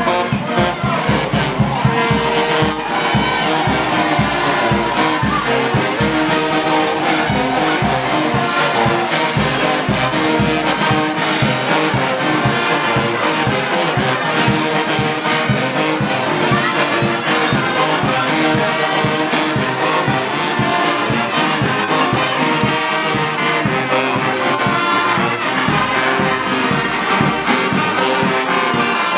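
Brass band of trumpets and trombones playing a tune with a steady beat.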